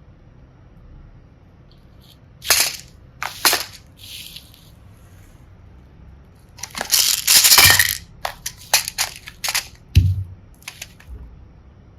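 Small plastic pieces being handled: crunchy, crackly bursts twice early on, a longer crunch in the middle, then a run of short clicks and one dull knock.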